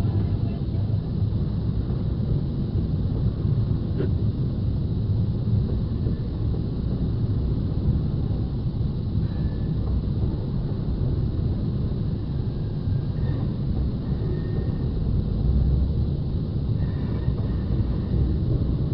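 Freight train of tank cars rolling past at close range: a steady low rumble of steel wheels on the rails.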